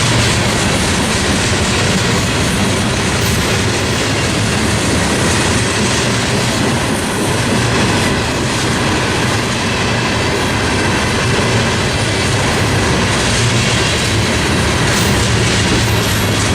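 A long freight train's cars rolling past at track speed: a steady, loud rumble of steel wheels on rail with a clickety-clack over the joints.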